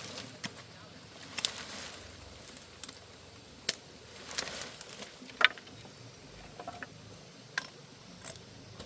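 Scattered light clicks and knocks with soft rustling, sharpest about five seconds in.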